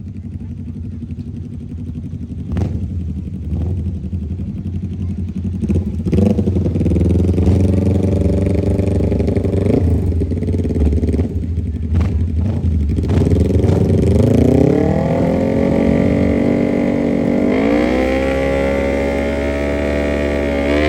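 Small mini bike engine running and revving, its pitch climbing in steps around the middle and again near the end, over a steady low hum. A few sharp clicks come before the revving picks up.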